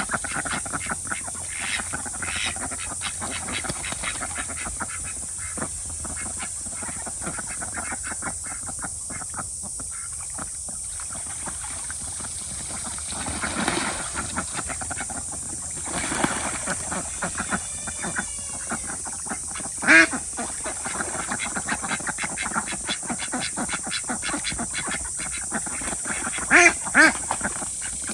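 Ducks quacking, with a few loud quacks standing out, one about two-thirds of the way through and two in quick succession near the end, over a steady high hiss.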